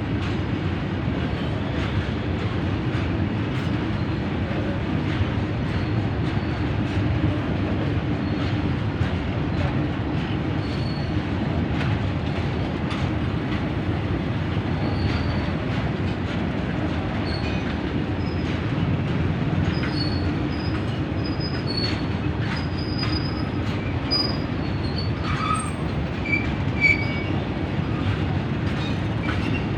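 Train running on the rails with a steady rumble and scattered clicks, and short high-pitched wheel squeals in the second half.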